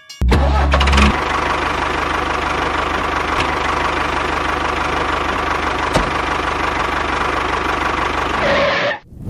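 Small motor of a DIY mini tractor running steadily with a constant whine and gear noise. It starts abruptly with a low rumble for about a second and cuts off suddenly near the end.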